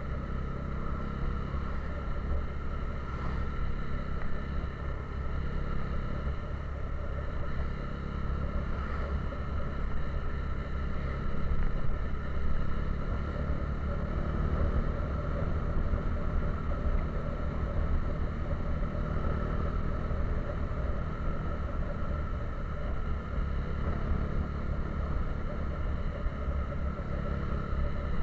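Steady engine and road noise from a moving vehicle, running on without a break.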